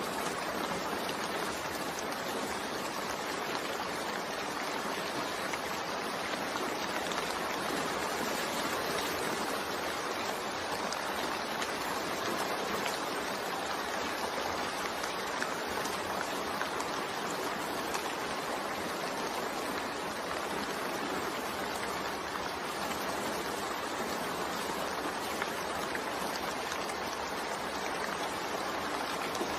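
Steady rain falling, an even hiss of many drops with faint patter on hard surfaces.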